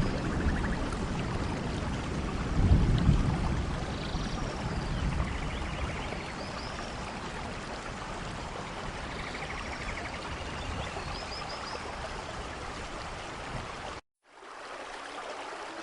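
Steady rainfall, a dense even hiss with a low rumble that swells about three seconds in, and faint short high calls now and then above it. The sound drops out abruptly about fourteen seconds in and comes back quieter.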